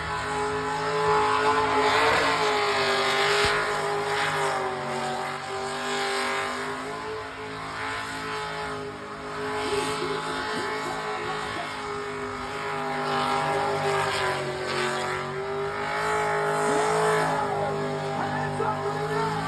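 A car engine held at high revs through a burnout, the pitch staying steady with slight dips and rises as the throttle is worked.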